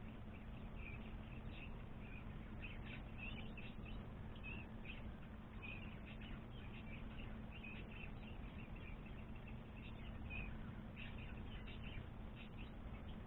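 Small birds chirping in quick, scattered short notes over a steady low hum.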